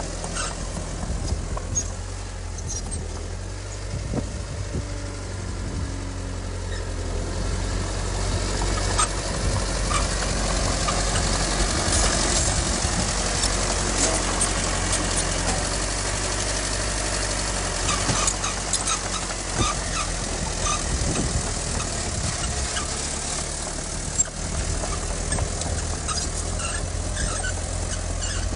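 Heavy diesel earthmoving machinery working: a steady low engine drone under clanking and rattling, growing louder about eight seconds in and easing off again near the end.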